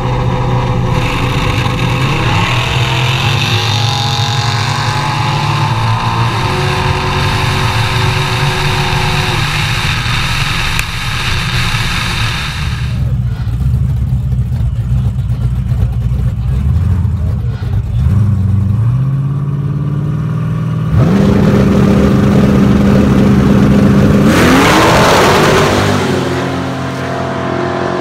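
Small-block V8 drag cars' engines: a steady engine drone with revs rising through the first half, lower idling after that, then a loud hard launch with revs climbing about three quarters through.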